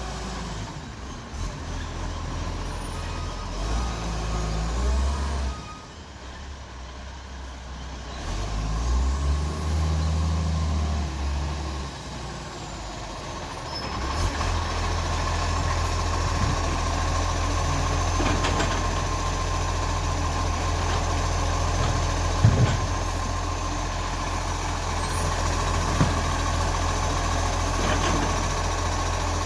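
ACCO garbage truck's engine running, its note going up and down for the first dozen seconds, then holding steady with a faint whine. Two sharp knocks come in the second half.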